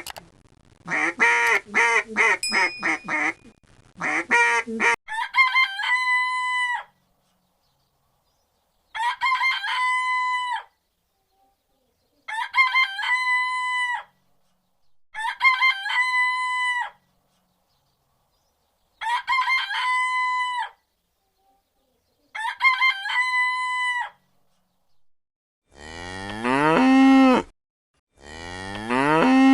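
A quick run of quacking waterfowl calls, then a rooster crowing six times, one long crow every three to four seconds, then a cow mooing twice near the end.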